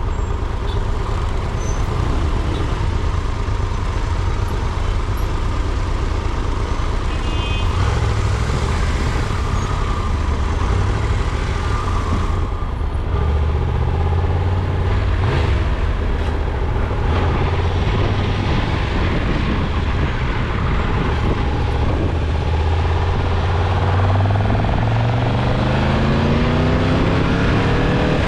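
A motor vehicle's engine running with steady road noise. Near the end its note rises steadily as it speeds up.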